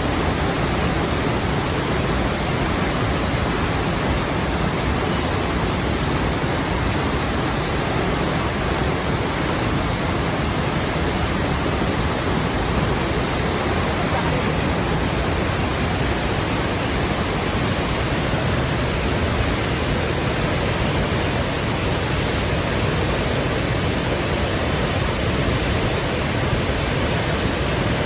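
Flowing water rushing steadily, a continuous even roar with no breaks or changes.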